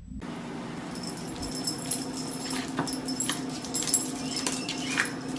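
A pet animal giving short, high whines, over scattered clicks and knocks and a steady low hum.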